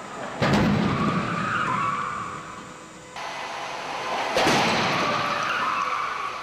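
Two crash-test impacts of a 2008 Smart Fortwo. Each is a sudden crash followed by a screeching scrape that fades over a couple of seconds, the second coming about four seconds after the first.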